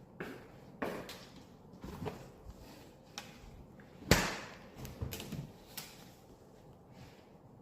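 Scattered knocks and clatters of handling, the loudest about four seconds in.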